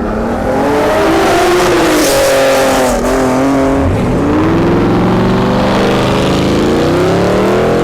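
Performance car engine revving hard as the car accelerates. The pitch climbs, drops sharply about four seconds in, then climbs steadily again, with a hiss of exhaust and tyre noise over it.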